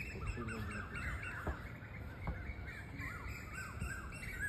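Small birds chirping over and over in quick, short rising-and-falling notes, over a low steady background rumble.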